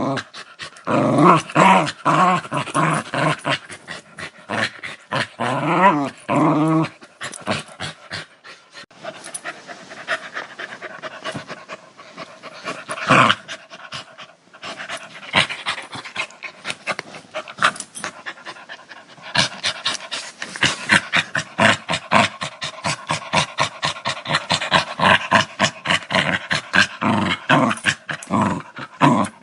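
Dog growling and snarling. For the first seven seconds there are pitched vocal sounds that rise and fall, then a rapid pulsing growl with panting-like breaths for the rest.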